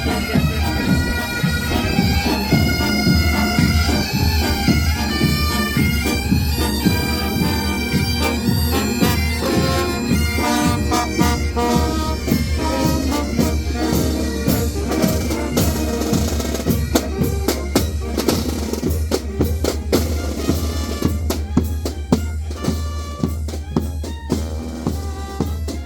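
Military band playing bagpipes and drums: the pipes carry a stepping melody over a steady drone, with regular drumbeats that come to the fore toward the end.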